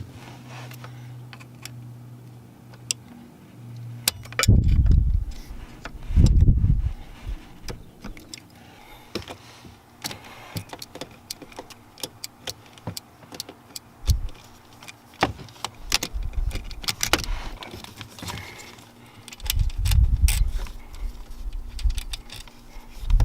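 Small metal parts and tools clicking and clinking as they are handled, with several dull low thumps. A low steady hum runs during the first few seconds, then stops.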